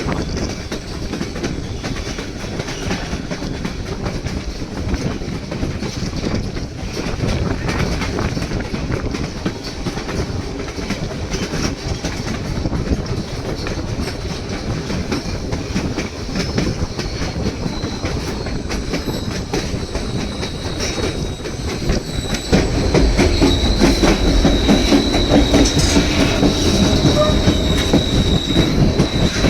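Narrow-gauge train cars of the White Pass & Yukon Route rolling over the rails, a steady rumble with wheel clatter. About 22 seconds in it grows louder and a thin, steady high-pitched wheel squeal sets in.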